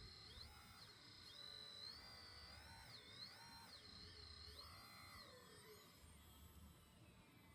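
Faint whine of a radio-controlled model's small electric motor, speeding up, holding and slowing down again several times as it is worked.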